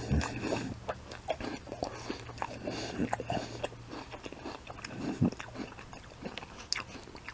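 A person chewing crisp apple slices close to the microphone, with irregular crunches and mouth clicks.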